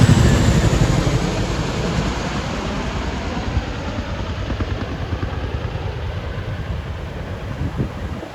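Two CH-47 Chinook tandem-rotor helicopters passing low and moving away, their rotor beat fading steadily and dropping in pitch.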